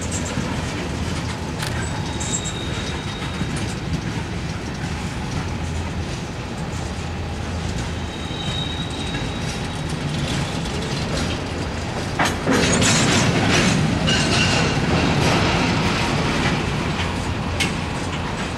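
Freight cars of a mixed freight train rolling past on steel rails: a steady rumble with wheels clacking over rail joints and a couple of brief high-pitched wheel squeals. A sharp click about twelve seconds in, after which the rolling gets louder for a few seconds.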